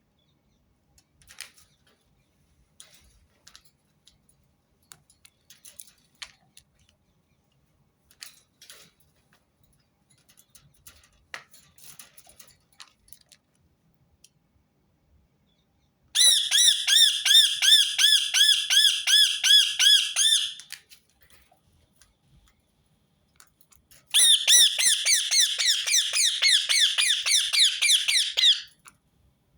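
Rose-ringed parakeet giving its loud, rapid repeated squawking call in two bouts of about four and a half seconds each, the notes coming about six a second, after some faint scattered clicks.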